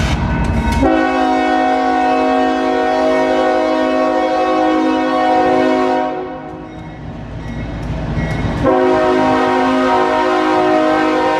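Union Pacific freight locomotive's multi-chime air horn sounding a long steady chord for about five seconds, breaking off, then blowing again near the end, over the low rumble of the passing train, sounded for the street crossings.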